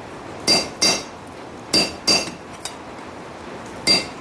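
Hand-hammer blows ringing on a steel anvil, five strikes mostly in pairs about a third of a second apart, each leaving a short bright ring. The work is cutting the forged razor blank off the parent bar.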